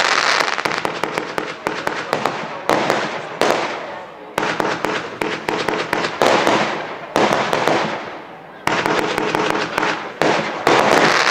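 Firework display: rapid crackling reports and bangs from aerial fireworks, coming in waves that start suddenly about every one and a half to three seconds and fade away between.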